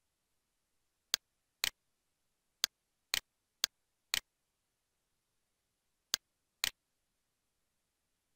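Computer mouse clicks: four pairs of short clicks, each a sharp click followed about half a second later by a second one, over otherwise dead silence.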